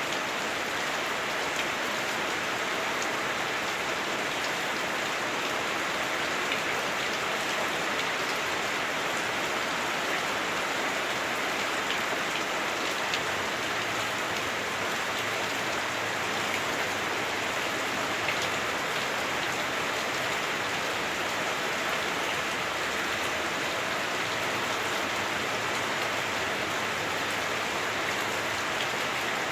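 Heavy rain drumming steadily on a house roof, heard from indoors: a dense, even patter with a slightly dull, clunky tone from the roof.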